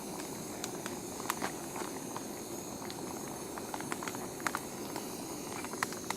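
Camp stove burning steadily under a pot of simmering food, with scattered small clicks and pops.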